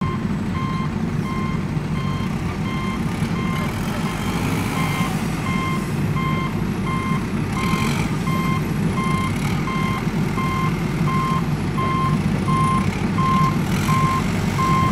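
Truck reversing alarm beeping at a steady, even pace over a low, steady engine rumble.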